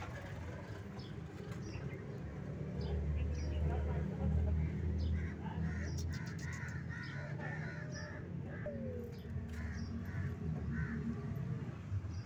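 Repeated short bird calls, with a run of about three a second through the middle, over a low rumble.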